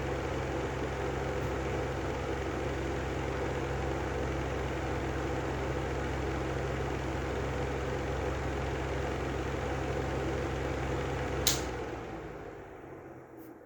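Lanson style 3 exhaust fan running with a steady motor hum and noise from its bad bearings. Near the end there is a sharp click, and then the fan winds down and fades away.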